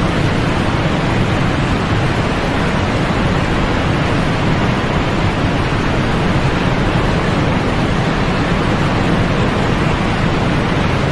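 Steady, unbroken white-noise sleep track: an even hiss with no rhythm or swells, heavier in the lows and falling off in the highs.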